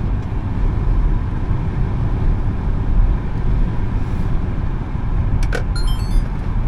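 Smart #3 electric car driving: a steady low rumble of road and tyre noise with a faint steady whine. About five and a half seconds in come a few sharp clicks and a quick run of short high pips.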